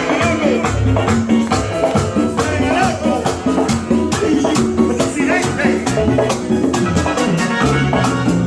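A band playing Latin dance music, in the salsa vein: a steady, evenly ticking shaker-like percussion over a bass line, with melodic lines on top.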